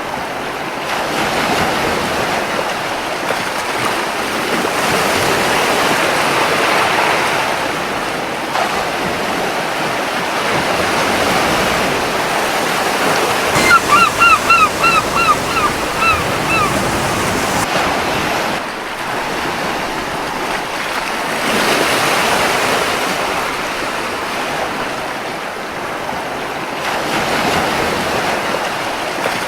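Gentle ocean surf washing onto a beach, swelling and easing every several seconds. About halfway through, a seagull gives a quick series of about eight short calls lasting some three seconds.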